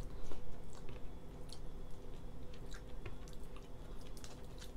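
A person chewing boiled lobster meat while picking it from the shell with her fingers: small scattered clicks and wet squishes over a low steady hum.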